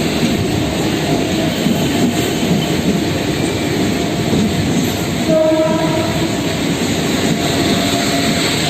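Mumbai suburban electric local train running at a station, a steady rumble of wheels and motors with rail clatter. About five and a half seconds in, a short pitched tone lasting under a second sounds over it.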